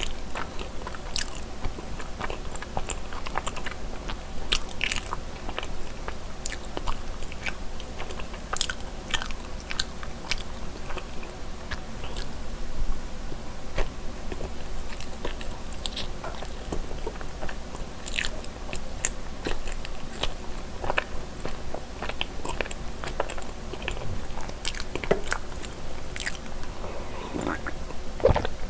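Close-miked chewing of soft cream-cheese-filled mochi rice cake: wet, sticky mouth sounds with many small irregular clicks.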